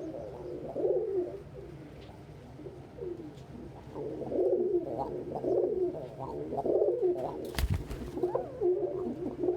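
Domestic pigeons cooing over and over, several calls overlapping, with a single sharp knock about three-quarters of the way through.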